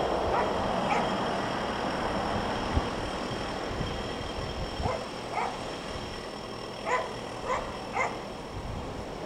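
Irish Rail 22000 class diesel multiple unit approaching with a steady low running rumble. Over it an animal gives short calls, two about five seconds in and three more about seven seconds in.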